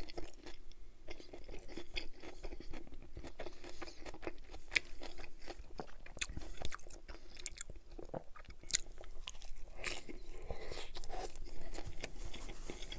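Close-miked chewing of a mouthful of chicken Caesar wrap with romaine lettuce and croutons: irregular crisp crunches and small mouth clicks, scattered all through.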